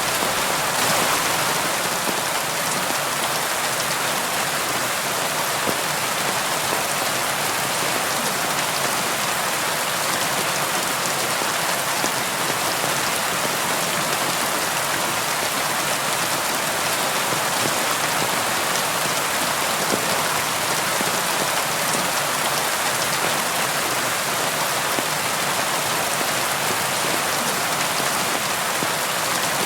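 Steady, dense rainfall: an even hiss of drops on a surface.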